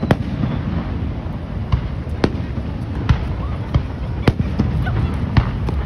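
Aerial fireworks bursting: about eight sharp bangs at uneven intervals, over a steady low rumble.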